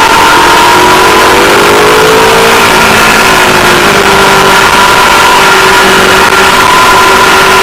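Aprilia Tuono V4 Factory's 1100 cc V4 engine running hard on track: its pitch climbs, drops about three seconds in, then holds steady. Wind rushes over the camera microphone throughout, and the whole recording is loud.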